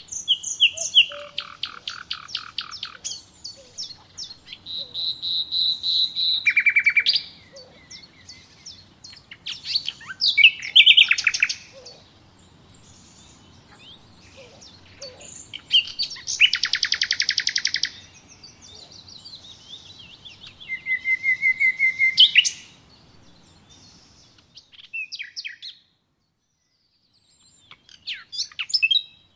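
Songbirds singing: a series of fast trilled and chirping phrases, each lasting a second or few, with scattered single chirps between them. The sound drops out completely for about two seconds near the end, then the chirping resumes.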